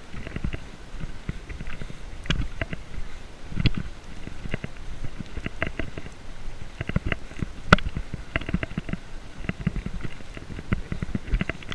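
Irregular crunching, rustling and thumping as someone walks through deep snow while filming handheld, with handling noise on the microphone.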